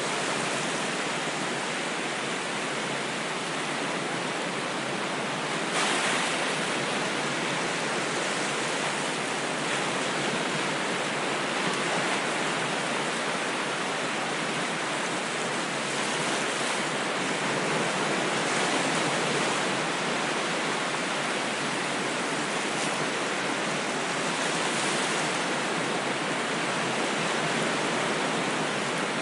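Ocean surf: a steady wash of breaking waves that swells a little now and then.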